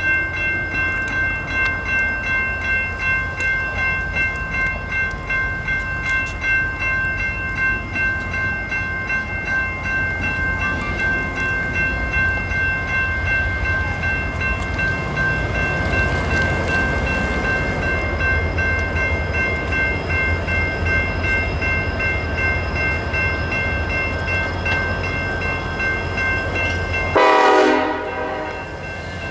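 Train rolling past with a steady, pulsing low rumble and several steady high-pitched tones held throughout. About 27 seconds in, a short, louder pitched blast, likely the train horn, and then the sound changes abruptly.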